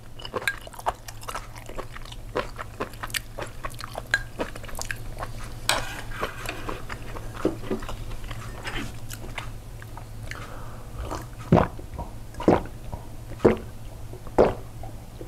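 Close-miked eating: chewing and biting with many small sharp clicks and crunches. Near the end come four or five louder knocks about a second apart.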